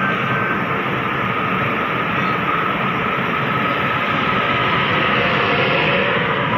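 Taiwan Railways EMU500 electric commuter train pulling out of a station, its wheels and running gear giving a loud, steady rumbling noise as the cars roll past close by.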